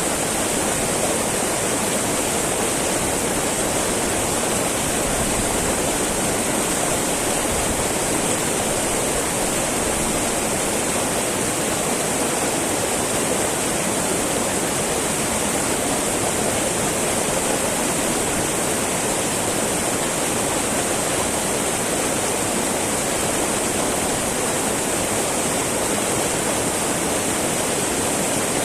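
A small mountain river babbling over rocks, a steady rushing flow that does not change.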